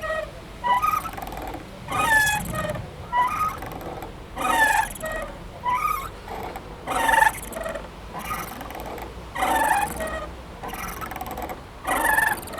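Playground swing squeaking as it swings back and forth: a creaky, sliding squeak about every second and a quarter, the louder squeak coming every other stroke.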